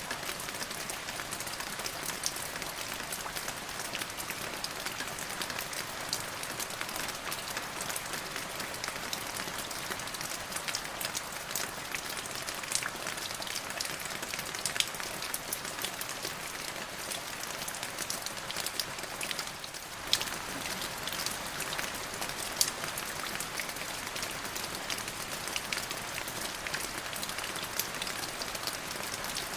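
Steady rain: an even hiss of falling rain with frequent sharp drop hits scattered through it. The level dips briefly about two-thirds of the way through.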